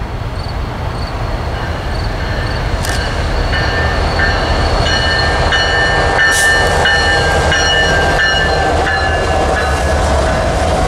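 Norfolk Southern freight train led by several diesel locomotives approaching and passing close. The engines' low rumble grows louder over the first few seconds, and thin, steady high-pitched ringing tones join it from about four seconds in.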